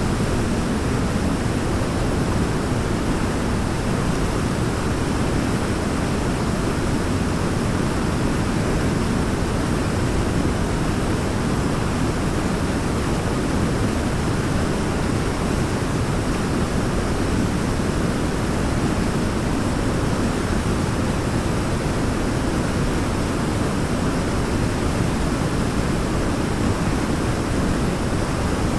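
Waterfall: a steady, deep rush of falling water.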